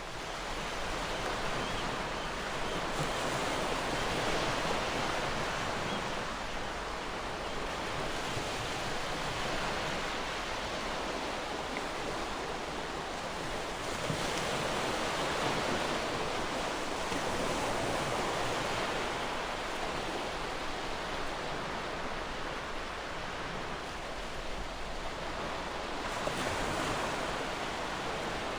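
Gentle ocean waves washing onto the shore: a steady rush of surf that swells and eases every few seconds.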